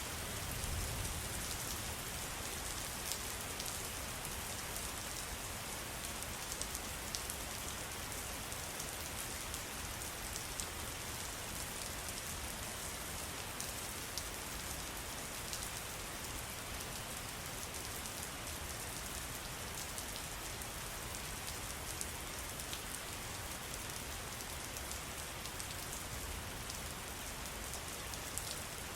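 Steady trickling, splashing water: an even hiss dotted with many small sharp drop ticks.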